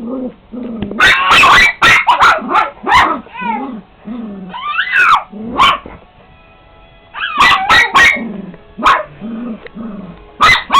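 Dog barking and yipping in quick clusters of short, sharp barks with some high whining calls, broken by brief pauses.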